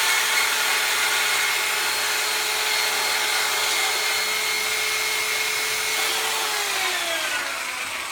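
Electric power tool polishing an aluminium engine case, its motor whining at a steady pitch with a rubbing hiss. About six and a half seconds in it is switched off and winds down, falling in pitch.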